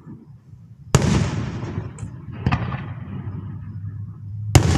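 Fireworks exploding: three loud bangs, about a second, two and a half seconds and four and a half seconds in, each followed by a long rumbling tail.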